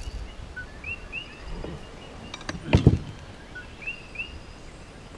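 A bird calling repeatedly: a short lower note followed by two quick arched high notes, the phrase coming twice, about three seconds apart. A little over halfway through, a few clicks and then a single loud knock stand out over the calls.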